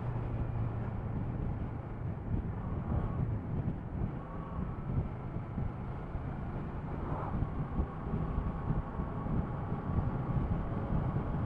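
Kawasaki ER6-F parallel-twin motorcycle engine running steadily on the move, under a rush of wind noise on the action camera's microphone.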